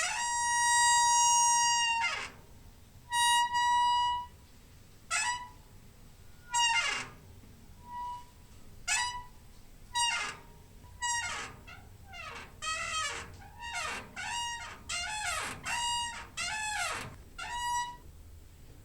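Squeaking door hinge: a long, steady squeak of about two seconds, a shorter one, then a string of short squeaks, some sliding in pitch, that come faster toward the end.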